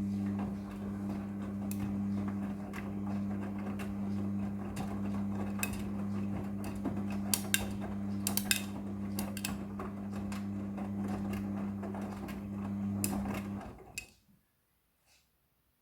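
Midea front-loading washing machine's drum motor humming steadily as the drum tumbles the laundry, with scattered clicks and rattles over it; it stops about fourteen seconds in.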